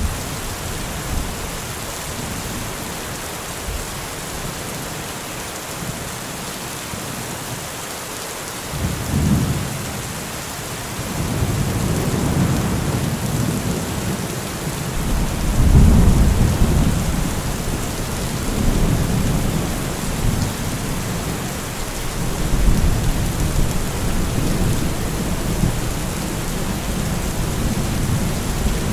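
Heavy rain falling steadily, with rolls of thunder rumbling in from about nine seconds in. The loudest roll comes about midway, and further rolls follow.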